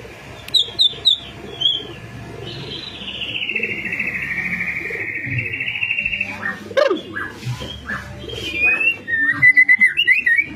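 White-rumped shama (murai batu) singing: a few sharp chirps, then a long buzzy trill that slides down in pitch over about three seconds, followed by varied short whistled notes and a quick run of repeated notes near the end.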